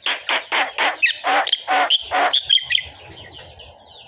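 Pet talking bird giving a quick run of about eight loud calls in the first two and a half seconds, then quieting down.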